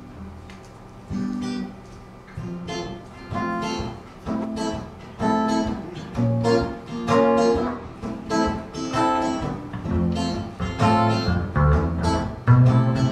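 Acoustic guitar strumming chords in a slow rhythm, about one stroke a second, starting about a second in and growing louder: the opening of a song.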